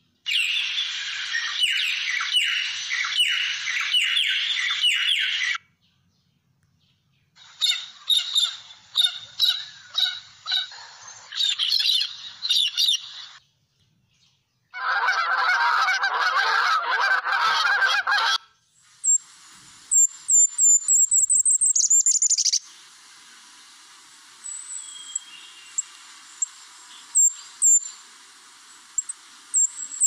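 A run of recorded bird calls. First figbird calls in short chirpy phrases. Then domestic geese honking, and in the last third very high, thin golden-crowned kinglet notes.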